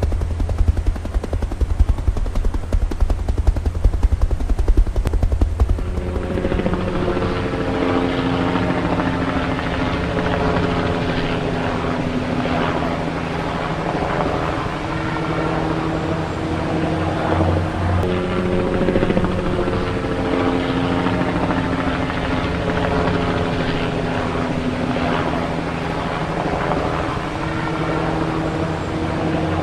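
Helicopter rotor beating with a fast, low chop. About six seconds in, music with held notes that step in a repeating pattern comes in over it.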